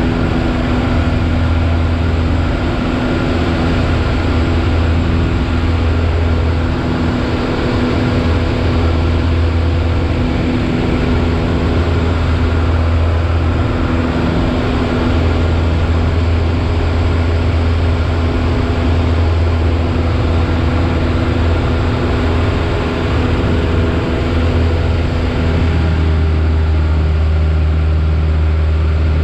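Piper Warrior's four-cylinder Lycoming O-320 engine and propeller droning steadily, heard from inside the cockpit. Near the end the engine note shifts slightly, as with a small power change.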